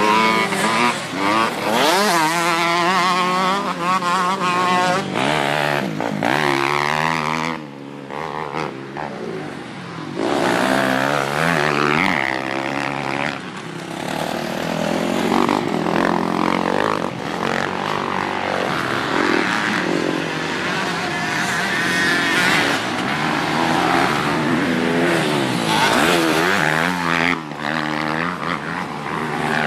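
Dirt bike engine revving up and down again and again as it is ridden, its pitch rising and falling with the throttle. It eases off briefly about eight seconds in.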